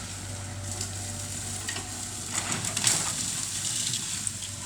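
Bamboo crackling and rustling as heavy machinery pushes it down, with a few sharp snaps of breaking stems over the steady low hum of the machine's engine.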